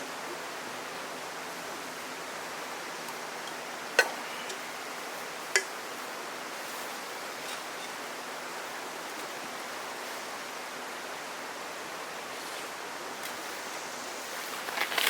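Steady, even hiss of background noise with two sharp clicks, about four and five and a half seconds in.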